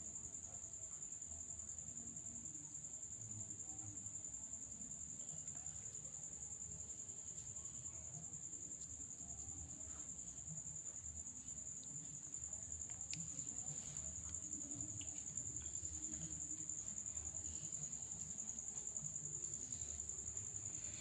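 Crickets chirring in a steady, unbroken high-pitched drone, over a faint low rumble of room noise.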